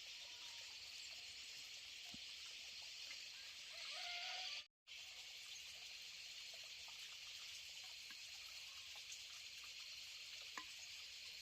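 Faint, steady outdoor ambience: a high, even hiss with no clear single source, broken by a brief total dropout near the middle.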